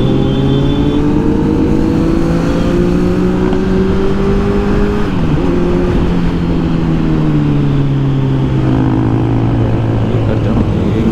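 Kawasaki Z900's inline-four engine under way on the road. Its pitch climbs steadily for about five seconds, dips sharply about halfway through, then sinks slowly as the bike slows.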